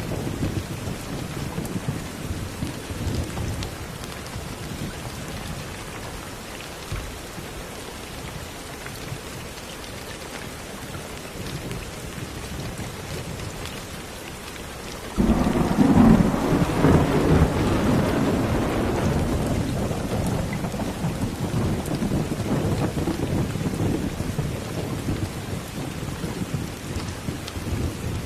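Steady rain with thunder: a low rumble dies away over the first few seconds, then a sudden loud thunderclap about halfway through rolls on and slowly fades under the rain.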